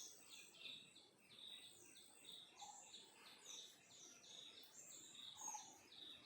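Faint birds chirping: short high chirps repeating about three times a second, with a couple of lower calls mixed in.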